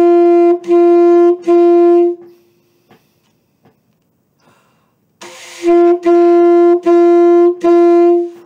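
Saxophone playing one steady note, tongued into short separate notes: three end about two seconds in, then after a rest of about three seconds come four more on the same pitch. This is a beginner tonguing exercise on the note 'so', fingered with the first three fingers and the thumb.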